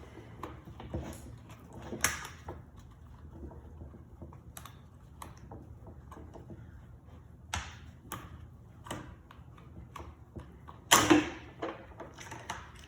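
Hand-tool work on a chainsaw's plastic handle: scattered clicks, taps and knocks of a screwdriver and parts being handled, with a louder knock about two seconds in and the loudest clattering knock, briefly ringing, about two seconds before the end.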